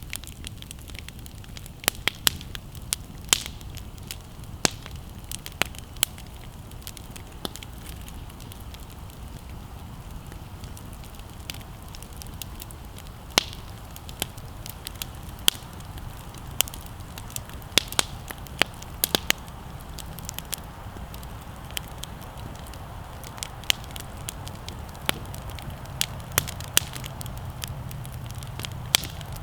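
Wood fire crackling: sharp pops at irregular intervals over a steady low background.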